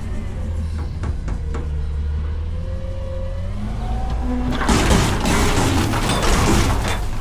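Front-load garbage truck's diesel engine running with a wavering hydraulic whine as the lift arms work, then about four and a half seconds in a loud rush and clatter of trash tumbling out of a bin into the hopper.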